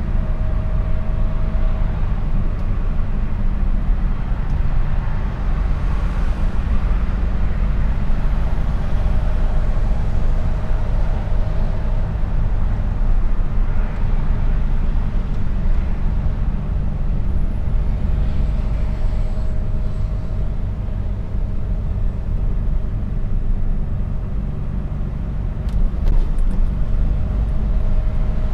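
Mercedes-Benz Actros truck engine running steadily under way, a low drone mixed with road noise.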